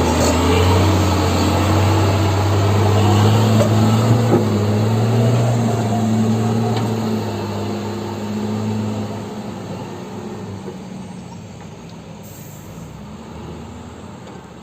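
Heavy dump truck's diesel engine running with a steady low drone, pitch rising a little in the first few seconds, then fading away over the second half.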